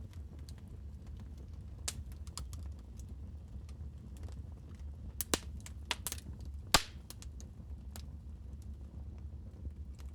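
Wood fire crackling in a fireplace: irregular sharp pops and snaps over a steady low rumble, with a quick run of louder pops a little past the middle and one loud crack about two-thirds of the way through.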